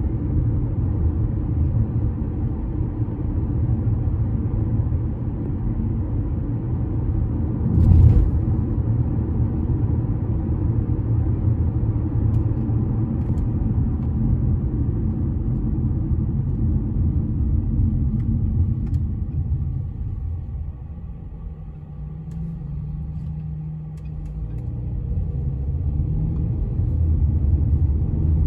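Low, steady rumble of traffic on a bridge, with one sharp knock about eight seconds in. The rumble eases about twenty seconds in, leaving a low hum, then builds again near the end.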